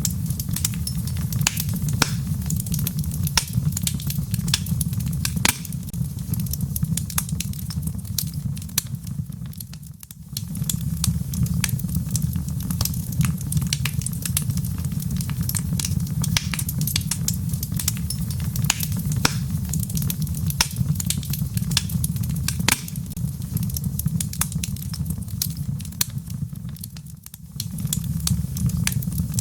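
Wood fire crackling in a fireplace, with many sharp irregular pops and snaps over a steady low rushing bed, with rain pattering. The whole sound briefly drops in level twice.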